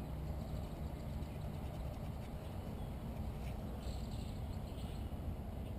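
Outdoor ambience: a steady low rumble with faint, scattered bird chirps, a small cluster about four seconds in.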